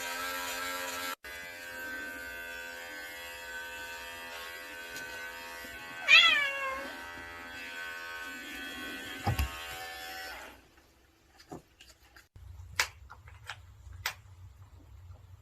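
Electric pet hair clippers buzzing steadily while a cat lets out one loud meow, falling in pitch, about six seconds in. The clippers stop about two-thirds of the way through, leaving a few faint clicks.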